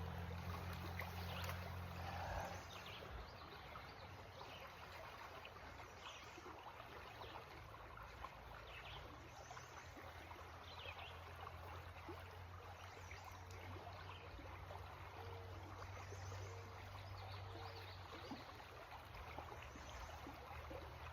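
Faint, steady rushing of a creek's flowing water.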